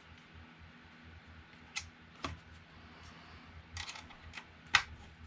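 Several short, sharp clicks and clinks of small metal parts and hand tools being handled while assembling a 3D printer's frame, the loudest near the end.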